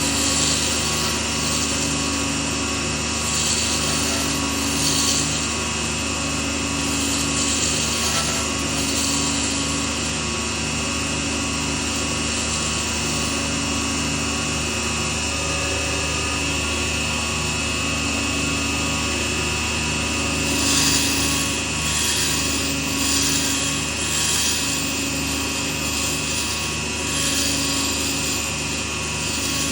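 Small lathe running steadily with a regular pulse, while a tool or abrasive scrapes against the spinning pen blank in repeated strokes, more often in the second half.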